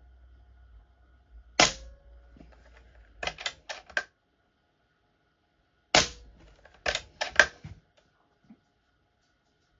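Airmaks Caiman X PCP air rifle firing twice, about four seconds apart, each shot a sharp crack. A second or two after each shot comes a quick run of three or four clicks as the action is worked for the next pellet.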